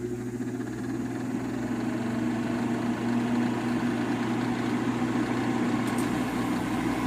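Kenmore dehumidifier running: a steady mains-pitched hum with its fan motor turning, the rush of air growing louder over the first few seconds as it comes up to speed. The fan motor is running again on a newly replaced thermal fuse.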